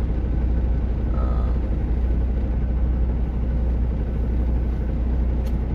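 Semi-truck diesel engine idling: a steady low rumble and hum.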